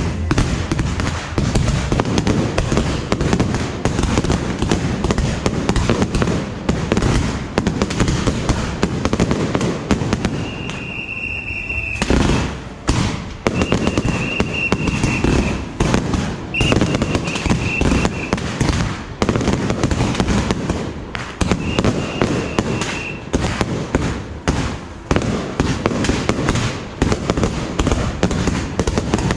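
Dense, unbroken crackle of bottle rockets and firecrackers going off in very rapid succession, as a Yanshui beehive rocket launcher fires. A high, steady whistle sounds several times in the middle.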